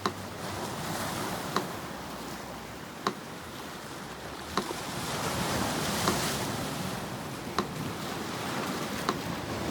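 Sea surf washing ashore, with a wave swelling and breaking about five to seven seconds in, under a slow metronome ticking about once every second and a half.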